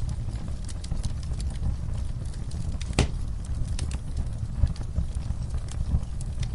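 Wood fire crackling in a fireplace: a steady low rumble of flames with scattered sharp pops and snaps, one louder pop about halfway through.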